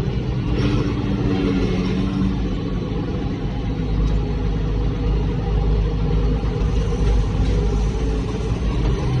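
International Harvester 3688 tractor's diesel engine running steadily under load, heard from inside the cab as a constant low rumble.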